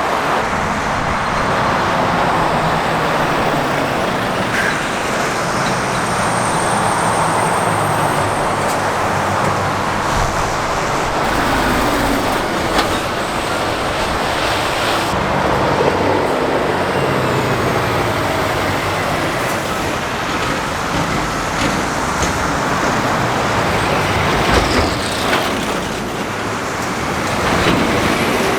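Continuous road traffic, with lorries and cars passing close by: engine drone rising and fading as each vehicle goes past, over a steady hiss of tyres on the road.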